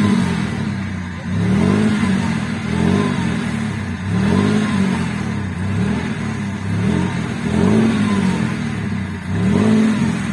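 An off-road vehicle's engine revving up and down over and over, roughly once a second, as the vehicle tries to drive out of a stream with only two wheels spinning and four-wheel drive not yet engaged.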